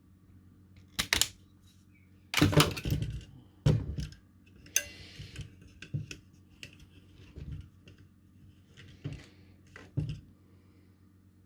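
Wire strippers clicking and snipping as the insulation is stripped off the ends of thin hookup wires, a series of sharp clicks loudest between two and four seconds in, with a short scratchy rustle about five seconds in.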